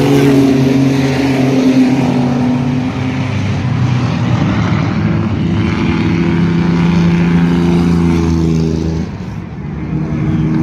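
Mini-truck race engines running on the track, several at once, their pitch rising and falling as they pass. The sound drops briefly near the end, then comes back.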